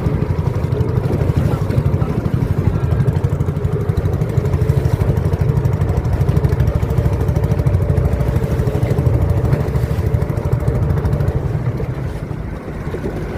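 A small boat's engine running steadily with a rapid, even chugging rumble; it eases off slightly near the end.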